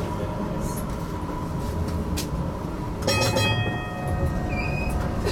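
GTL8 tram running, with a steady low rumble from the wheels on the rails. About three seconds in, a brief metallic ringing starts suddenly and fades over about a second.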